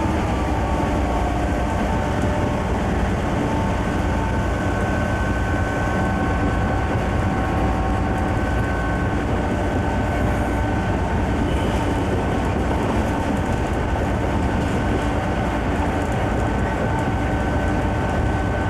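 Conrail freight train running steadily: a continuous drone of diesel locomotive and wheels on rail, with a few steady whining tones held throughout.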